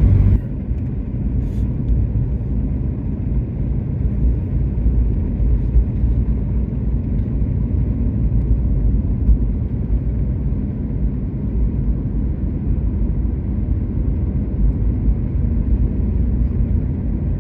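Car driving along a snowy highway: a steady low rumble of engine and tyre road noise.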